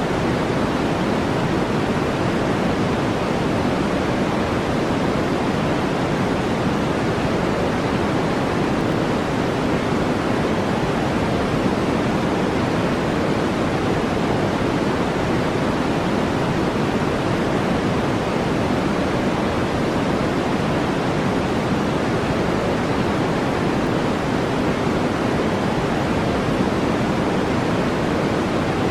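Steady brown-style noise, a deep, even rush with most of its weight in the low-middle range and little treble, unchanging throughout.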